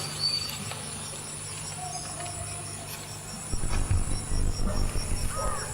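A cricket chirping in a fast, even pulse, with a low rumbling noise in the second half.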